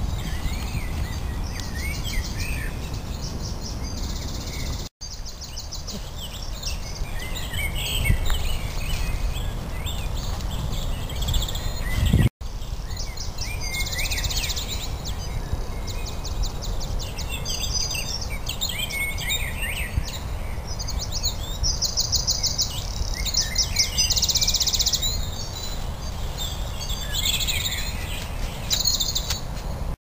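Several songbirds singing and calling at once, with many short chirps and fast trills, over a steady low rumble. The audio cuts out briefly twice.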